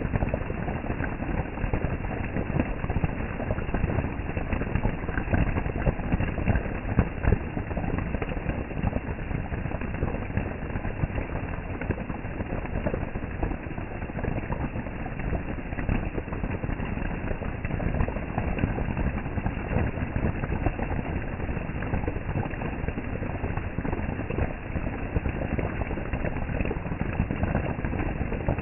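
Heavy rain falling steadily, a dense hiss of countless drops striking surfaces, unchanging throughout.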